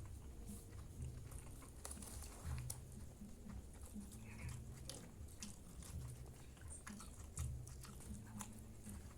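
A person chewing and biting food close to the microphone, with irregular soft thuds and scattered light clicks.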